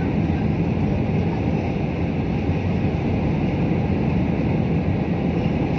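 Steady airliner cabin noise on final approach: engines and airflow rumbling evenly, with no bumps or thumps.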